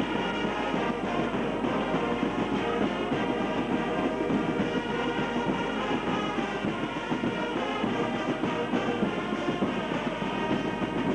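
Music from brass instruments playing sustained chords.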